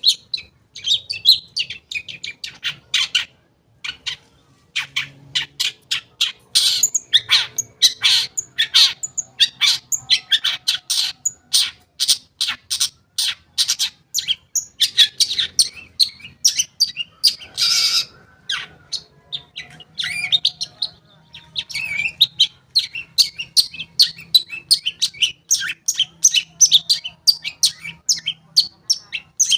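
Long-tailed shrike (cendet) singing a fast, chattering run of short, quick notes, with a brief pause about four seconds in: a lure song used to set other cendet singing.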